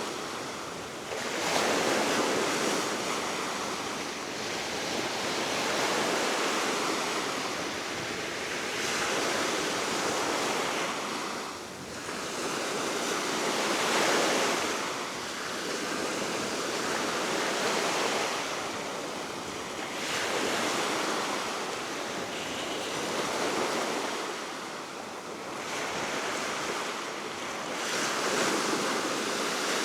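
Baltic Sea waves washing ashore, rising and falling in swells every three to four seconds, with steady wind.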